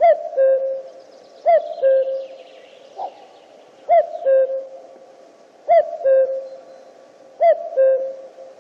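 Common cuckoo calling its two-note "cu-koo", a higher note dropping to a lower one, five times in a row with pauses of about one and a half to two and a half seconds, plus a lone short note about three seconds in.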